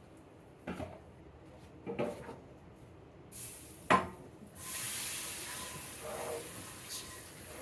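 A pan being handled at a sink, knocking a few times with one sharp clank about four seconds in, then a kitchen tap starts running steadily as the pan is rinsed out.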